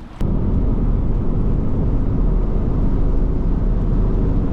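Steady low rumble of a vehicle in motion, starting abruptly just after the start and holding level.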